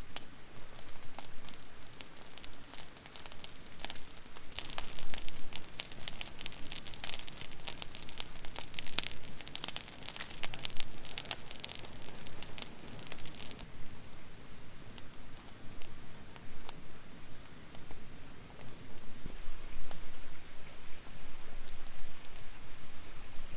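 Wood campfire crackling and popping with many sharp snaps, dense at first and thinning out about halfway through.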